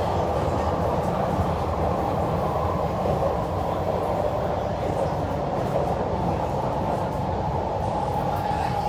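MTR Kwun Tong line C-train (Metro-Cammell electric multiple unit) running: a steady rumble and rolling noise, with a faint tone near the top that drifts slightly lower.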